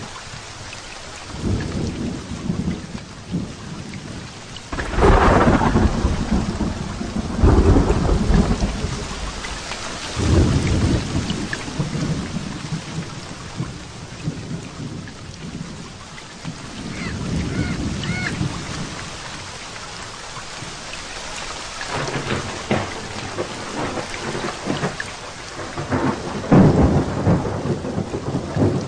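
Heavy rain falling steadily through a thunderstorm, with several rolls of thunder: a loud crack and rumble about five seconds in, another a few seconds later, and more rumbling near the end.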